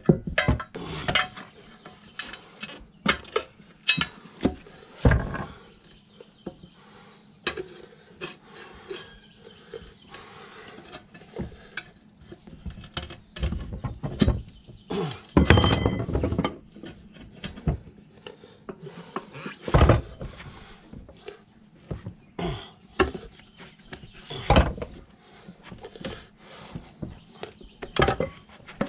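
Metal tire-lever bars clinking and knocking against a motorcycle wheel rim as a tire bead is pried off by hand, with irregular sharp clanks and a few short stretches of scraping.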